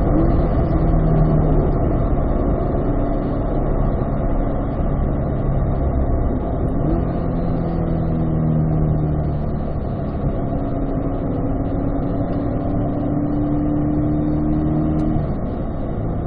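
Car engine heard from inside the cabin at track speed, with wind and tyre noise. It slows and downshifts from fifth to third into a corner, pulls in third, then shifts up to fourth about 15 seconds in.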